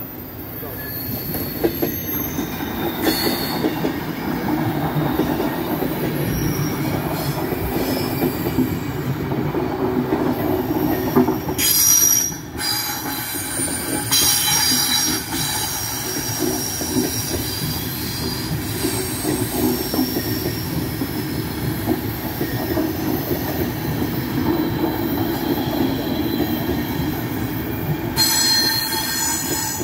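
A passenger train of SBB coaches passing close by over a level crossing, its wheels rumbling steadily on the rails. High-pitched wheel squeals come and go over the rumble, strongest near the start, around the middle and near the end.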